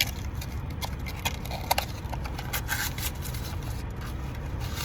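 Paper blind-box packaging being torn open and crinkled by hand: irregular crackles and clicks, a few sharper ones about a second and three quarters in, over a steady low rumble.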